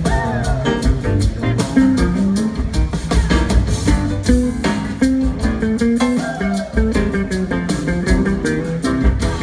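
Live blues-rock band playing an instrumental passage: an electric guitar lead with sliding, gliding notes over bass guitar and drum kit.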